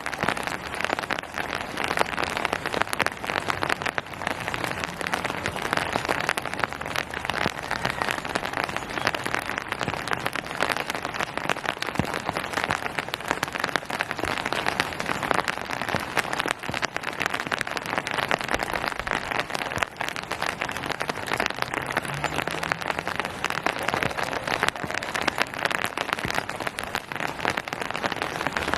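Steady rain falling and pattering on surfaces, a dense even patter of many individual drops.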